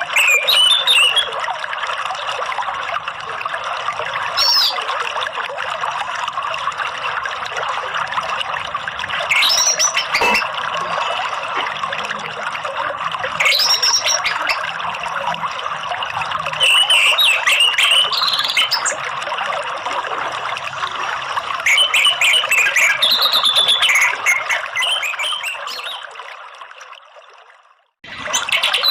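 Running water trickling steadily, with short bird song phrases breaking in every few seconds, taken from an orange-headed thrush therapy recording. Near the end the water fades out to a moment of silence, and the recording starts over.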